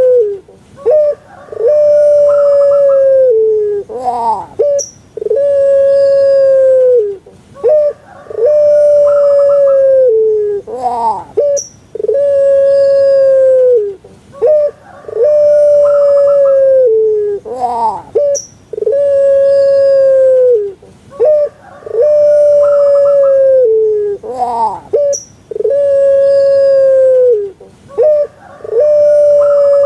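Puter pelung dove (a long-voiced domestic Streptopelia dove) cooing over and over, about once every three and a half seconds. Each call is a long held note that falls slightly at its end, with short rising notes between calls.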